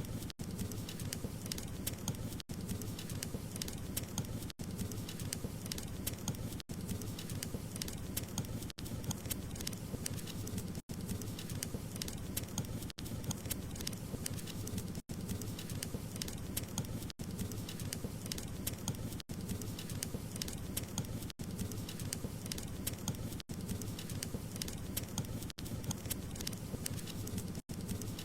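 Wood fire crackling: a steady low rush of burning with many small sharp pops and snaps. Very brief dropouts come about every two seconds.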